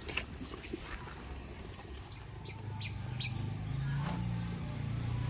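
A few short, falling bird chirps in quick succession about halfway through, over a low engine hum that grows louder in the second half.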